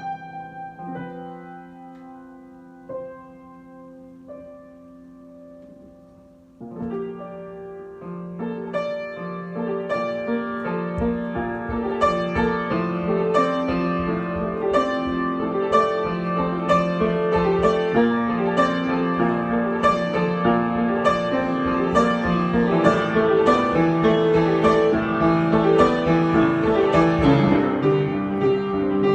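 Solo piano improvisation: a few slow, spaced notes at first. After about six seconds it turns into fuller, busier playing, with deep bass notes coming in and the volume building steadily.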